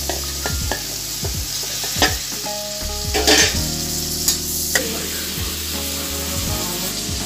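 Onions, vegetables and freshly added tomato pieces sizzling in ghee and oil in a pressure cooker, with a steel spatula scraping and clinking against the pot as it stirs.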